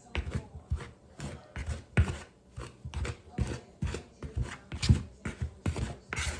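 Crisco shortening being cut into flour in a mixing bowl for dumpling dough: short scraping, chopping strokes against the bowl, about two or three a second and uneven.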